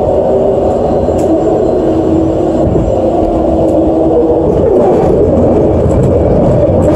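Vancouver SkyTrain Expo Line train running along its elevated guideway, heard from inside the car: a loud, steady rumble with a steady hum. A few faint clicks come as it passes over track switches.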